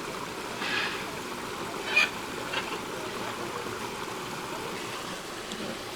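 Steady low rushing background noise, with a few brief sharp sounds about a second and two seconds in.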